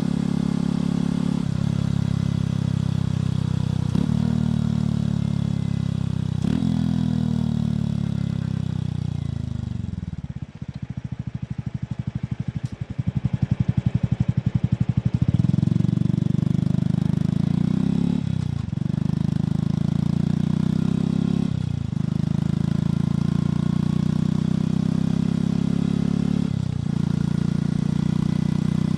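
Motorcycle engine and exhaust accelerating, with the pitch dropping at each upshift. It slows down to a steady idle with an even, slow beat near the middle, then pulls away and shifts up through the gears again.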